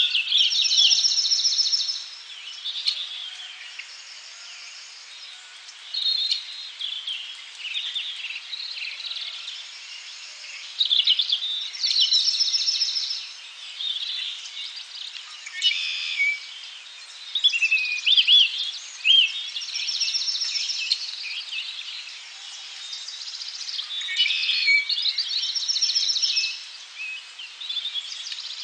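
Wild birds calling and singing, with one high, fast trilling song phrase repeated about every six to seven seconds among scattered chirps and whistles.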